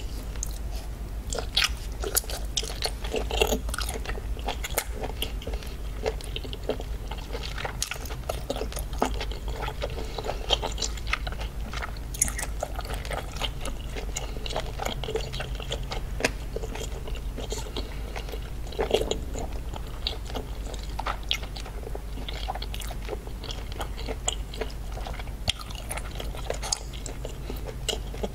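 A person biting into and chewing cooked octopus, recorded close to the mouth: irregular wet clicks and smacks, with a steady low hum underneath.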